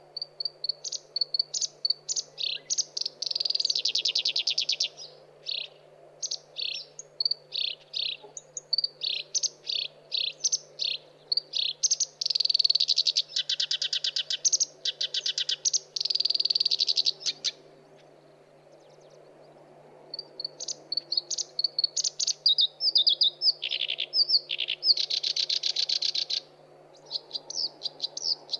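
Black-browed reed warbler singing: a fast run of short chirping notes mixed with harsh, buzzy trills of a second or two, with a pause of about two seconds past the middle.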